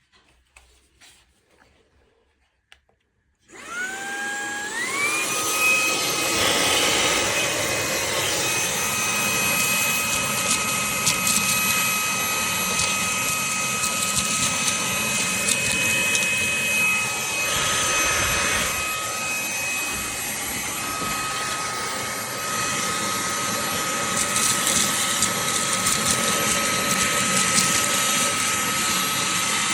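Fanttik Slim V8 Apex handheld car vacuum switched on after a few faint clicks. Its motor whine climbs in steps as it spins up, then runs steadily over a loud rush of suction air. Past the middle the whine dips and wavers for a few seconds before settling again.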